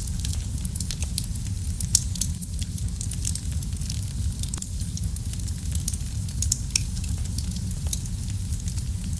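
Wood fire in a fireplace crackling, with frequent sharp pops scattered irregularly over a steady low rumble of the burning fire.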